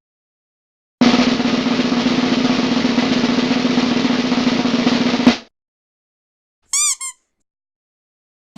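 Snare drum roll lasting about four seconds, ending in a louder hit. A moment later come two short pitched blips.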